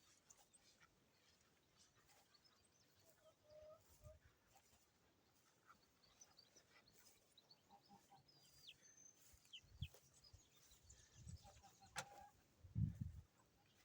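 Faint clucking of chickens with a few short high chirps, broken by a click and a low thump near the end.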